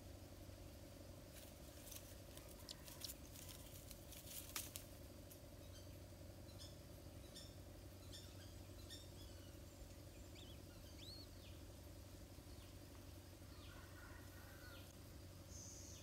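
Faint sharp clicks and rustles of nest twigs in the first few seconds as a shikra shifts and leaves its stick nest. Then faint, short, high, falling bird chirps repeat many times, over a steady low hum.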